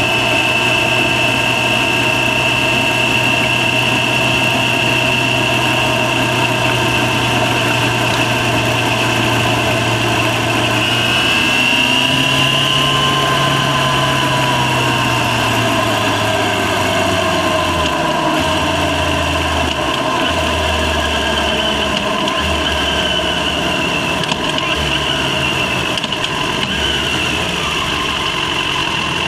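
Yamaha FZ6's inline-four engine running at a steady pitch as the motorcycle is ridden. The pitch rises a little about twelve seconds in, then eases back down over the next few seconds.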